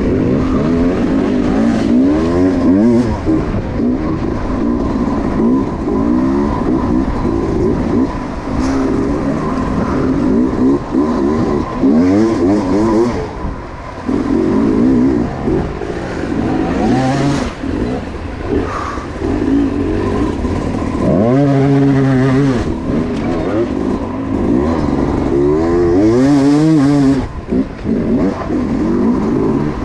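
Dirt bike engine revving up and down over and over as it climbs, its pitch rising and falling, with a few hard revs near the middle and towards the end.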